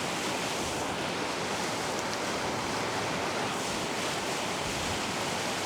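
Steady rushing of river water, an even unbroken roar with no rise or fall.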